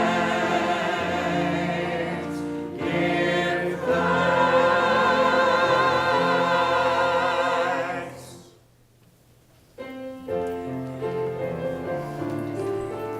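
Church congregation and choir singing a hymn phrase with keyboard accompaniment. The singing ends about eight seconds in, and after a short pause the keyboard starts playing again with steady held notes.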